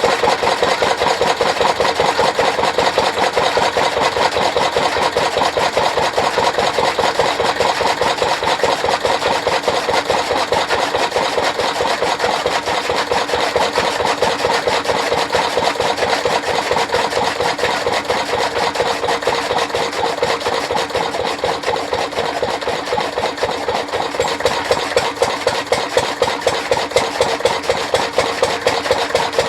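Engine-driven chaff cutter running steadily, the engine's rapid even firing with the machine's clatter. In the last few seconds a sharper regular beat comes through, about twice a second.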